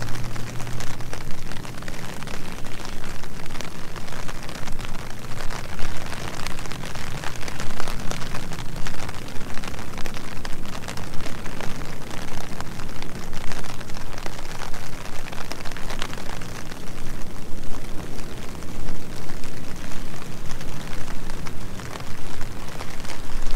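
Steady rain falling, a dense patter of drops over a constant wash of noise.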